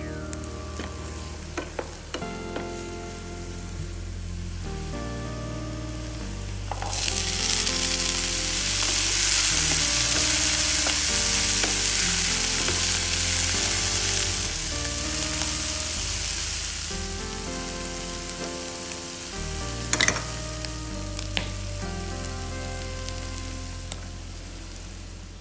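Onions, garlic and chickpeas frying in olive oil in a nonstick pan: a loud sizzle starts about seven seconds in, as the chickpeas go into the hot oil, and fades about ten seconds later. A wooden spatula stirs and knocks against the pan a few times near the twenty-second mark, over background music.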